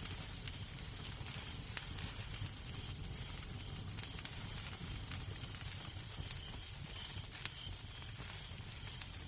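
Wood fire crackling in a fireplace: a steady low rumble and hiss with irregular sharp pops and snaps, two louder pops about two seconds in and near the end.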